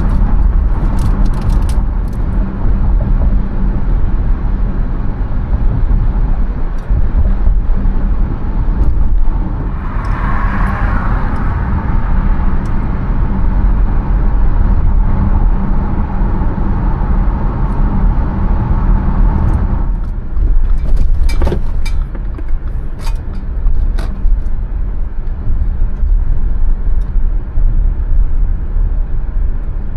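A car driving, with a steady low rumble of road and engine noise. A swell of louder noise comes about ten seconds in, and a few sharp knocks and clicks come around twenty seconds in.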